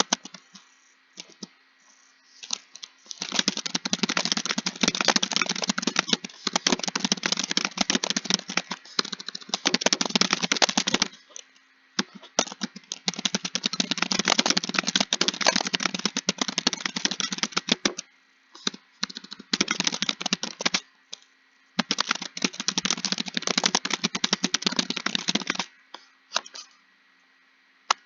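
Fast typing on a computer keyboard: long runs of rapid keystrokes broken by pauses of a second or so, with a few scattered single keystrokes in the pauses.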